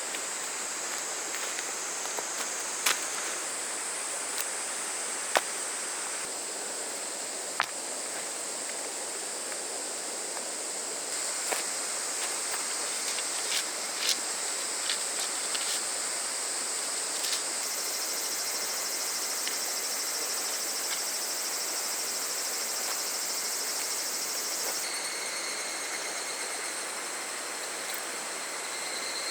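Cicadas and other insects calling in steady high drones over the even rush of a small river, with a denser buzz starting about halfway through that stops abruptly a little over a second or two before the end gives way to lower steady tones. A few sharp single clicks stand out early on.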